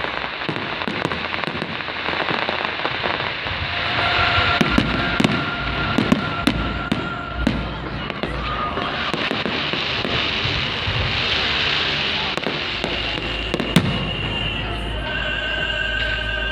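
Fireworks display: repeated bangs and crackling of shells bursting overhead, with voices in the background. Music from loudspeakers comes in near the end.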